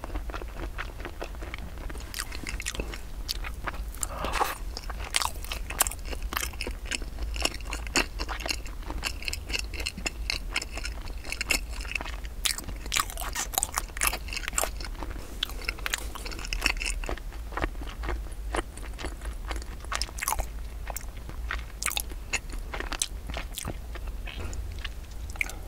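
Close-miked chewing of a cream-filled glutinous rice cake (cream chapssaltteok), with many sharp mouth clicks.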